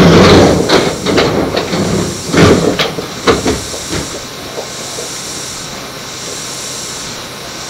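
Eizan Electric Railway train pulling into a station and stopping: a run of irregular knocks and clunks from the wheels and running gear over the first four seconds, then a steady hiss as the train stands.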